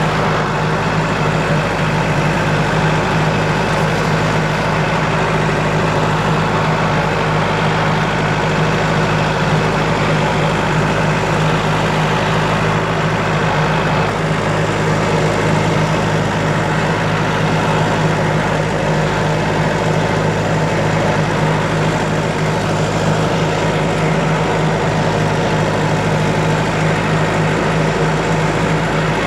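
John Deere 1070 compact tractor's diesel engine running steadily at constant speed while the tractor mows with its rear finish mower.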